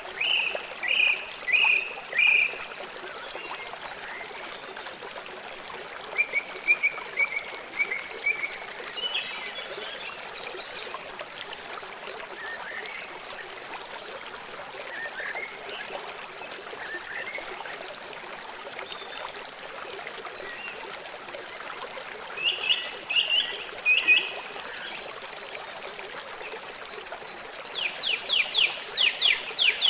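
A stream trickling steadily while songbirds chirp in short runs of notes now and then, with a fast trill near the end.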